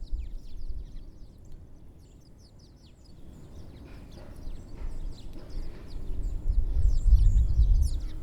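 Small songbirds at feeders giving many short, high chirps and calls, more of them from a few seconds in, over a low rumble that grows louder toward the end.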